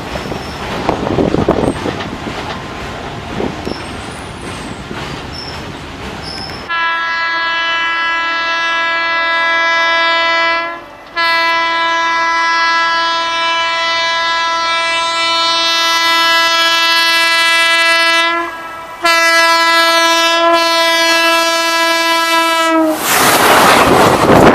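Indian Railways electric locomotive's horn sounding three long, steady blasts over the rumble and clickety-clack of a moving train, then the loud rush of the train passing close near the end.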